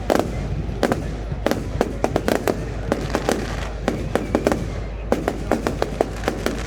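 Fireworks exploding in a rapid, irregular string of sharp bangs and crackles, several a second.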